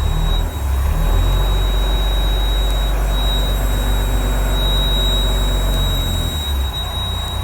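Army truck engine running, heard from inside the cab: a heavy low rumble that eases off about six seconds in. A thin, steady high whine sits over it throughout.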